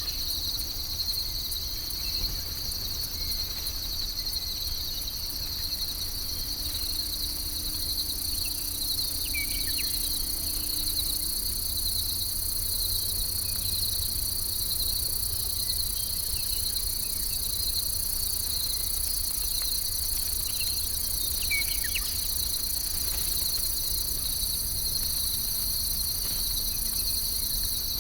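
Steady high-pitched chorus of insects trilling without a break, with a few short high chirps over it, at about ten seconds in and again at about twenty-one seconds.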